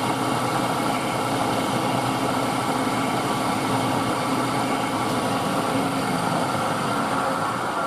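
Milling machine running steadily, its motor and spindle giving an even mechanical hum with several steady tones.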